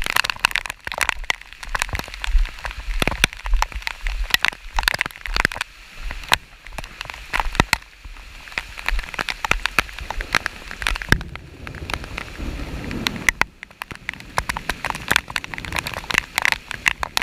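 Rain falling, with many irregular sharp ticks of drops striking close to the microphone and a low rumble of wind on the microphone.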